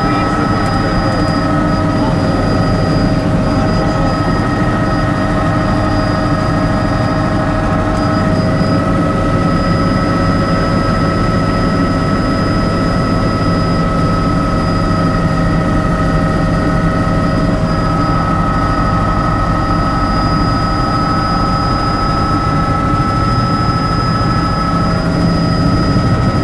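Helicopter turbine and rotors running steadily, heard from inside the cabin in flight: a dense low drone with a steady high whine.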